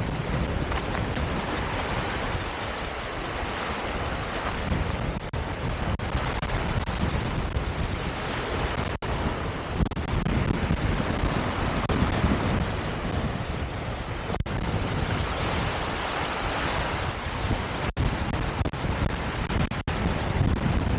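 Wind buffeting the microphone over a steady rushing noise, with a few brief dropouts.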